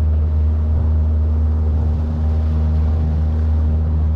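An engine running steadily at constant speed, a loud low drone with a steady hum of even tones above it.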